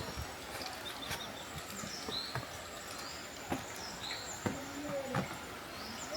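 Small birds chirping, short high calls repeating about once a second, over a steady hiss with scattered sharp taps.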